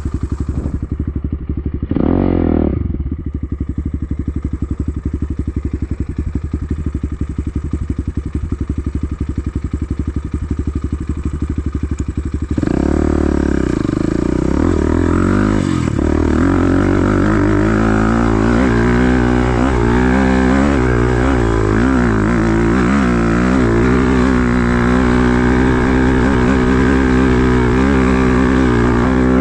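BSE Z5 dirt bike's engine ticking over with an even low beat and one quick blip of the throttle about two seconds in. About twelve seconds in it gets louder and runs under load, its pitch rising and falling with the throttle as the bike is ridden.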